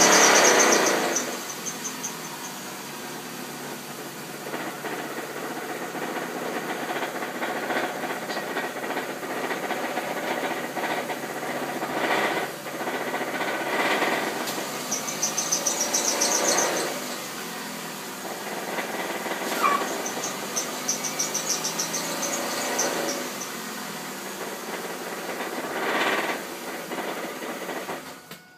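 2001 Ford Focus engine idling with a continuous rattle from the belt housing, swelling louder a few times, most of all right at the start. The rattle comes only at idle and goes away under throttle; the torque mount bolts have already been checked.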